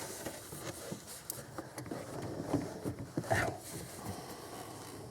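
Aftermarket rubber lower radiator hose being worked into place by hand during a dry fit: scattered light clicks, knocks and rubbing, with a brief squeak a little after three seconds, the loudest moment.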